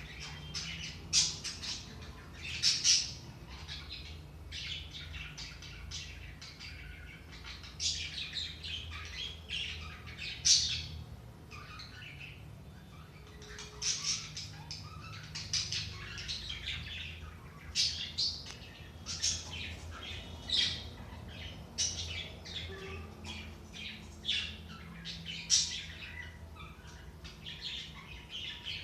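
Budgerigars chattering: a busy run of quick high chirps and squawks, with a few louder calls standing out now and then.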